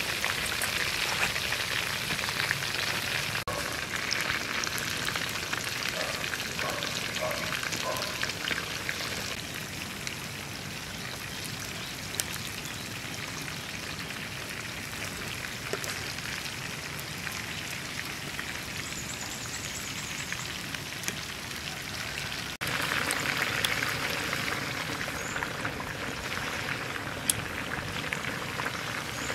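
Pork ribs with yam, potato and onion deep-frying in a wok of hot oil, a steady crackling sizzle. It eases off in the middle and is louder again near the end.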